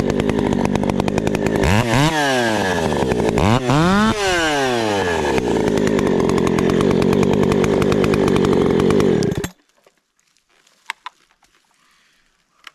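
Two-stroke chainsaw running at high revs, its pitch dropping and climbing back twice, about two and four seconds in. It stops abruptly about nine and a half seconds in, leaving only a few faint clicks.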